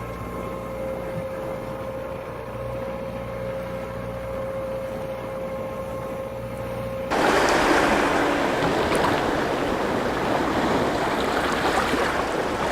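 A steady low motor hum with a thin steady whine. About seven seconds in it cuts abruptly to the louder, even rushing wash of sea surf.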